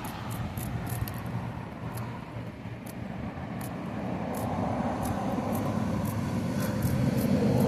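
Low rumble of a passing motor vehicle, growing louder over the last few seconds, with scattered faint clicks over it.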